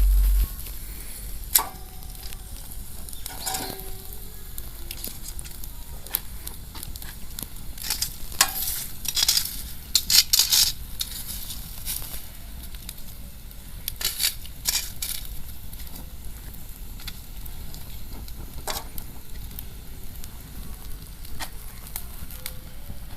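Outdoor wood bonfire crackling and hissing, with sharp pops scattered irregularly and a thicker run of louder crackles around the middle. A brief low rumble right at the start.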